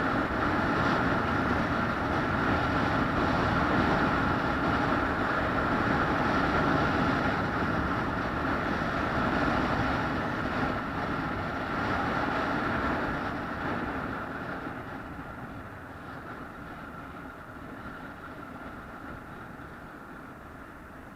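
A vehicle running steadily with a constant drone, then fading away over the last several seconds as it moves off or slows down.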